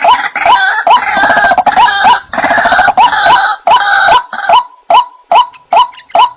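White-breasted waterhen (ruak-ruak) calling: a steady series of short, upward-hooked notes, about two to three a second. From about one second in until past the middle, a denser, noisier overlapping chatter of calls joins the notes.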